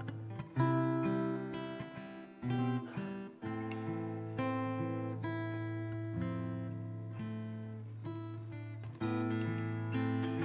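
Acoustic guitar strumming chords, a new strum every second or two, over a sustained low bass note; instrumental music with no singing.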